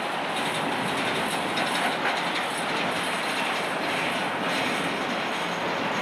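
A railroad train rolling past: a steady noise of steel wheels running on the rails.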